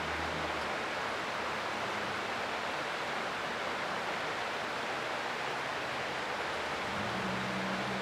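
Creek water flowing in a steady, even rush. A faint low hum fades out at the start and comes back about a second before the end.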